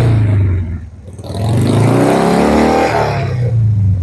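Motorcycle engine being revved while warming up. It eases off about a second in, then rises in pitch again and holds before dropping back at the end.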